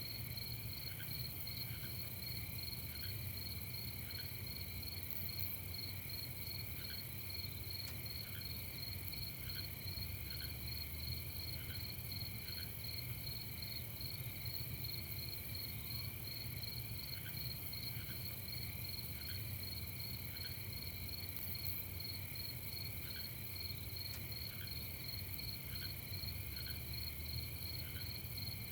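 Crickets chirping in a steady, rapid trill, with shorter lower-pitched chirps repeating irregularly about once a second and a faint low rumble underneath.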